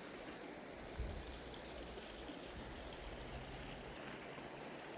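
Faint flowing river water, a steady soft rush, with a soft low thump about a second in.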